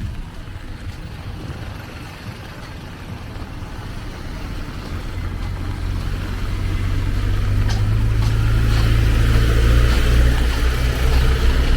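A motor vehicle's engine running close by, its low hum growing steadily louder over the second half as it draws near, loudest near the end.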